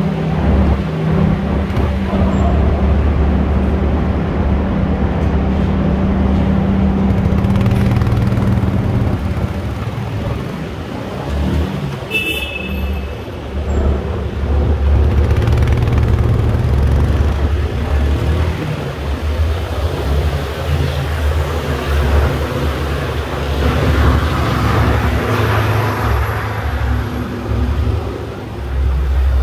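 Yamaha R15 V2's 150 cc single-cylinder engine running at low road speed, heard from the rider's seat, its pitch shifting up and down with the throttle. A brief high-pitched beep sounds about twelve seconds in.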